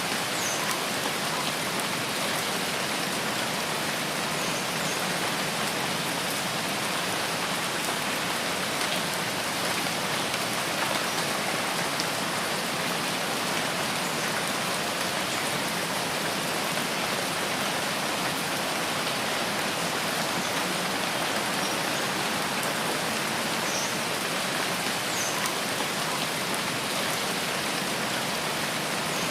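Steady, even rain falling in a forest, with a few faint brief high chirps now and then.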